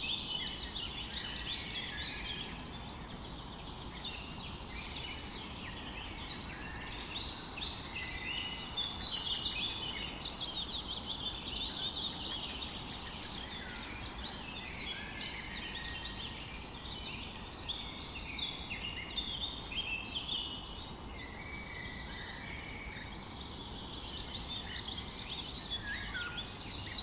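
A chorus of songbirds singing and chirping at once, many overlapping trills and short notes, over a faint low background hiss.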